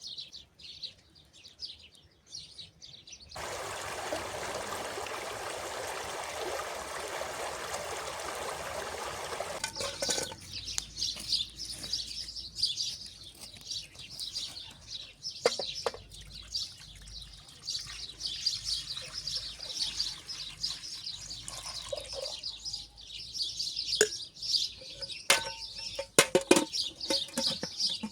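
Small birds chirping and singing continuously. From about three seconds in, a steady rush of running water covers them for about six seconds, and a few sharp clicks and knocks come near the end.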